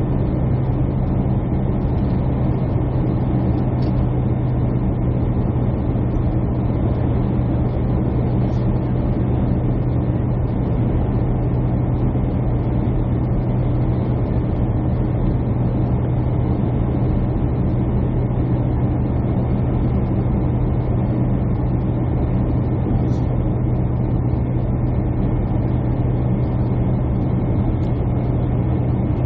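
Steady drone of jet airliner engines and airflow heard inside the passenger cabin, with a strong low hum that never changes.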